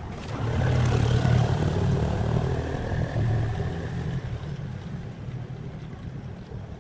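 A motor vehicle's engine running, getting louder about half a second in and then slowly fading.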